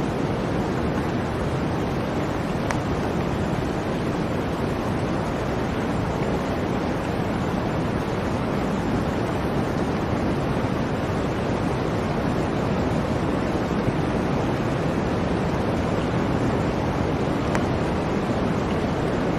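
Steady blizzard wind, a dense, even rush of noise with no gusts or breaks.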